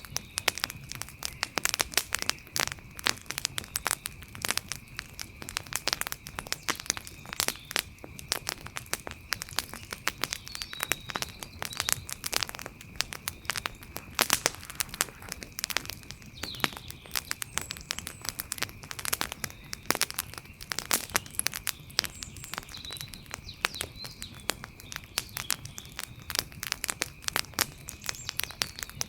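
Wood fire crackling, with a dense, irregular run of sharp pops and snaps. A steady high tone sits underneath, and a few faint chirps come through now and then.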